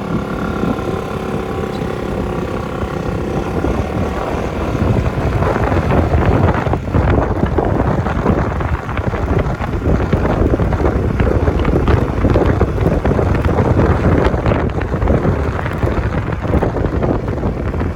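Suzuki Skydrive 125 scooter under way: its engine hum is heard at first, then wind noise on the microphone builds and swamps it as the speed rises.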